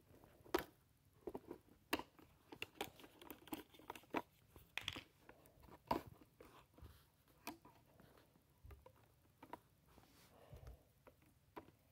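Faint, irregular clicks, taps and rattles of small plastic toy parts being handled.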